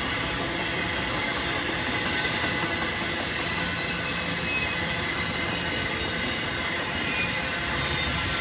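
Intermodal freight cars loaded with containers and trailers rolling past at speed: a steady rumble of steel wheels on rail, with a faint steady high tone running through it.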